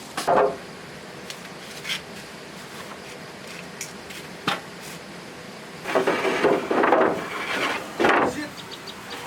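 Irregular wooden knocks and scraping, as of timber boards being handled: a sharp knock near the start, a few single clicks, then a longer stretch of rubbing and knocking about two-thirds of the way in.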